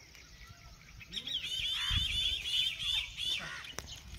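A songbird singing a fast run of about ten repeated high chirps, starting about a second in and lasting a little over two seconds.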